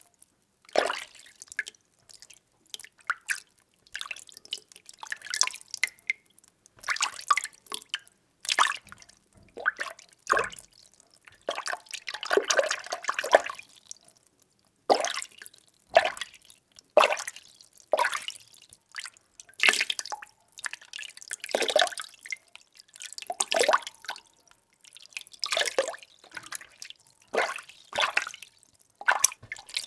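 Water being stirred: irregular swishes, sloshes and small splashes, about one or two a second, with a longer spell of sloshing a little before the middle.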